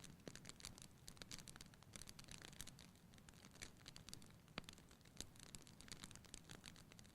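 Wood fire burning in a fireplace, crackling quietly with rapid irregular snaps and a few sharper pops.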